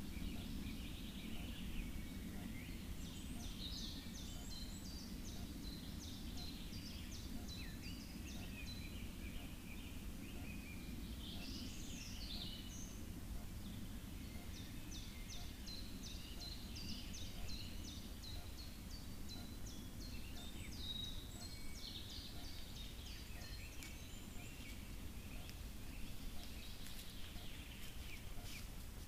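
Faint songbirds singing: several overlapping songs of quick repeated high notes and trills, over a steady low rumble.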